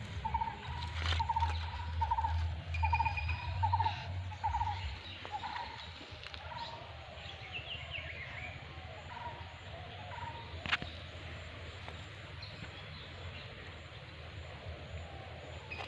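A bird calling over and over, about two short calls a second, which fade out about five seconds in. Fainter chirps from other birds follow, with one sharp click near the end.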